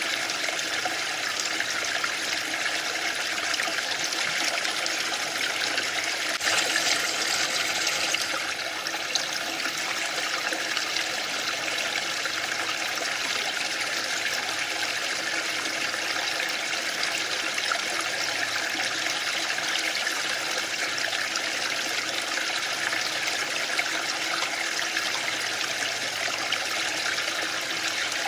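Waterfall: a steady rush of falling water, briefly a little louder and brighter about seven seconds in.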